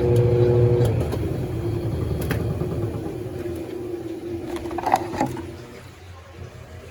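Small washing machine's motor running with a steady hum, then cutting out about a second in and winding down over the next few seconds, with a couple of sharp clicks along the way.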